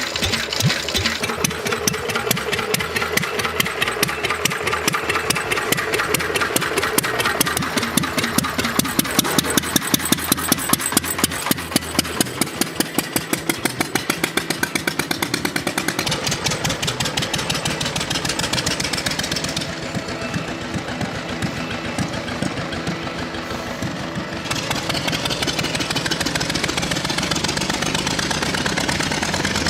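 A 1936 Lister D single-cylinder engine on a motorbike running with a distinct, regular beat of firing strokes. The beat is strongest around the middle, then evens out into a smoother run.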